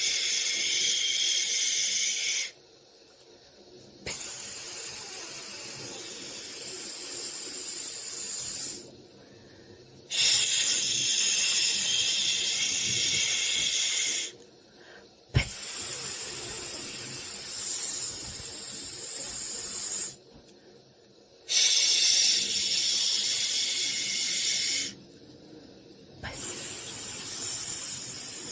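High-pitched white-noise hiss in long bursts of about three to five seconds, each broken by a quiet pause of a little over a second, with a single click about halfway through.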